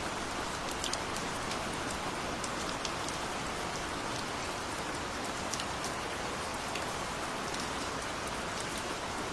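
Steady gentle rain falling, an even hiss with scattered individual drops ticking sharply on a surface.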